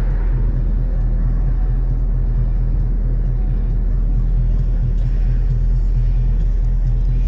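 Steady low engine and road rumble inside a moving vehicle, with music playing along with it.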